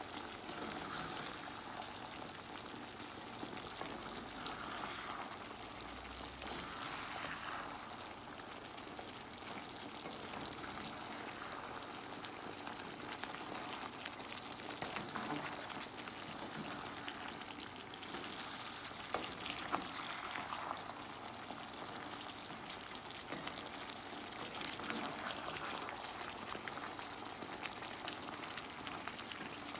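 Pinakbet vegetables and pork frying in a pan with a steady sizzle, stirred with a wooden spatula that scrapes and clacks against the pan. There are a couple of sharper knocks about twenty seconds in.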